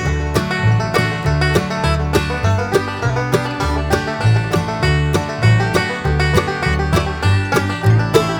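Upbeat instrumental background music in a country or bluegrass style, with plucked strings such as banjo and guitar over a steady beat and bass line.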